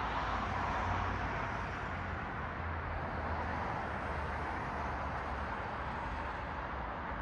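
Road traffic: the tyre and engine noise of passing cars as a steady wash with a low rumble, easing slightly after the first second or two.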